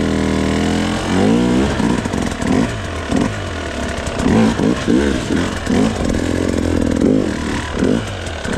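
Gas Gas dirt bike engine held steady for about a second, then revved up and down in quick, repeated throttle blips, the pitch rising and falling about twice a second at times.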